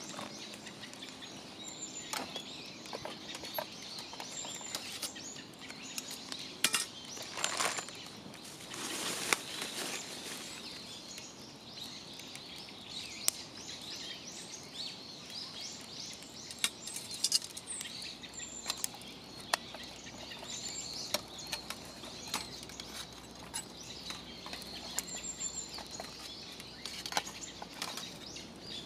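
Wood fire in a fire pit crackling, with irregular sharp pops and a brief louder rush of noise about eight seconds in. Small birds chirp in short high calls.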